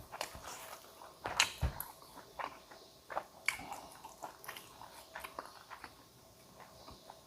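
A person chewing and biting food close to the microphone: irregular wet clicks and crunches, with a louder bite about a second and a half in.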